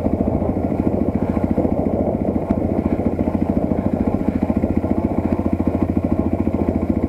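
Geon Dakar GNS300 enduro motorcycle's single-cylinder engine chugging at low, steady revs as the bike is ridden slowly. It gives an even pulse throughout.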